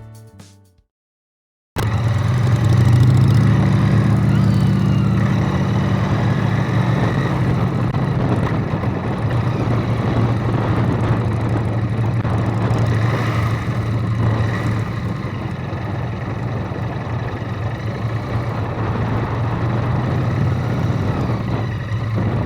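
Motor vehicle engine running steadily: a low hum under road and wind noise. It starts about two seconds in, after the end of the music and a moment of silence.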